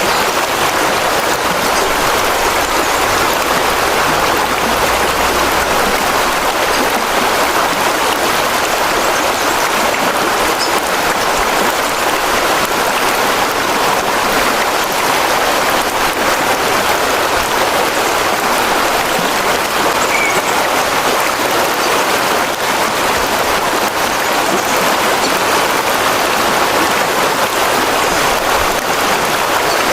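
Steady rushing water, an even hiss with no pauses.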